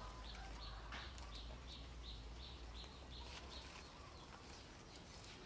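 A bird chirping repeatedly, about three short high chirps a second, stopping about three and a half seconds in, over a faint low rumble.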